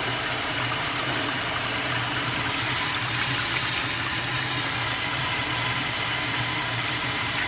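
1960 American Standard Cadet toilet flushing on garden-hose pressure: a steady rush of water as the bowl siphons out and refills, over a low, even hum.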